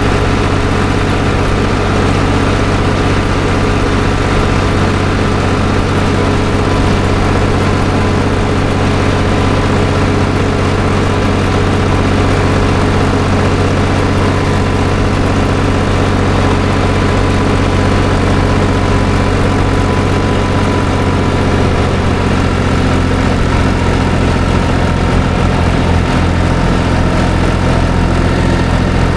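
Farm tractor engine running steadily, a constant loud drone heard from the driver's seat while the tractor is driven.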